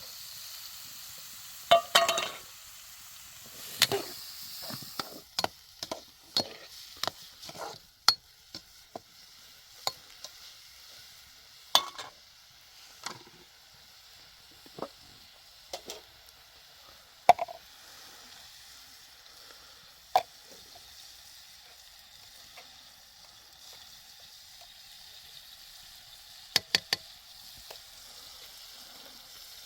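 Food sizzling in a pan with a steady hiss. Scattered sharp clicks and knocks of a utensil against the pan run through it, with a quick cluster of them near the end.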